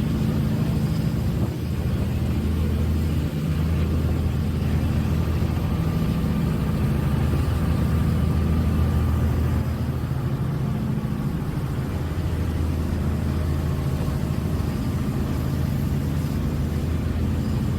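A large engine running at a constant speed: a steady low drone with a slight dip in level about ten seconds in.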